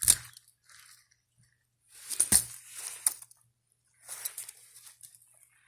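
Leaves and stems rustling as the plant is handled, in three brief bursts, the middle one with a couple of sharp snaps.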